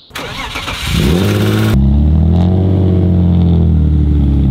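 For the first second and a half, a loud rushing noise with an engine note climbing in pitch as it revs. Then, after a sudden change, the BMW E36 328i's straight-six idles with a steady, even note.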